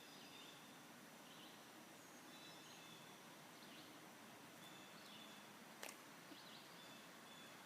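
Faint songbird chirps, short calls repeating over and over against a steady outdoor hiss, with a single sharp click about six seconds in.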